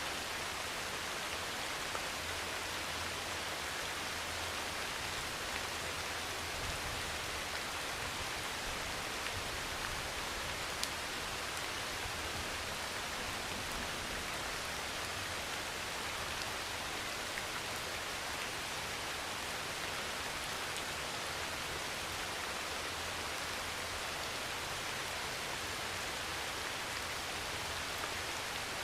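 Heavy rain falling steadily on a metal roof, with a few sharper single drop ticks.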